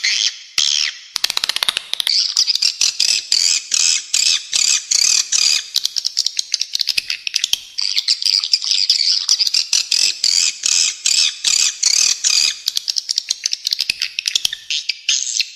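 Spiderhunter and swiftlet calls layered together in a dense, rapid run of short, sharp, high chirps, many per second, with hardly a break.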